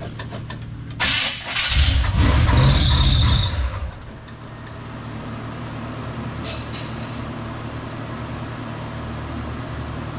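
G-body Chevrolet Malibu's carbureted engine running. About a second in it revs up hard with a high squeal, then drops back to a steady idle, with another short squeal just past the middle. The owner says this engine is finished and has to come out.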